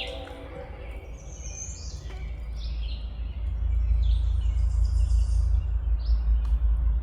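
Songbirds chirping in short, repeated calls over a steady low rumble on the microphone, which grows louder about halfway through.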